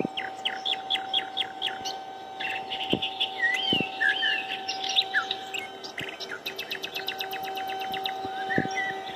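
Songbirds singing: a quick run of repeated chirps, then looping whistled phrases, then a fast rattling trill near the end, over a steady hum.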